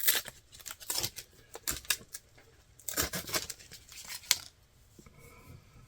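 Dried deer sinew being split into long strips, making dry crackling and rasping fibre sounds in two bursts, the second starting about three seconds in.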